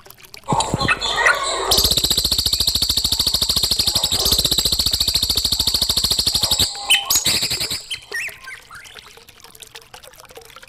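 Songbird singing: a few short chirps, then a long, very fast buzzing trill lasting about five seconds, followed by a few scattered notes that fade.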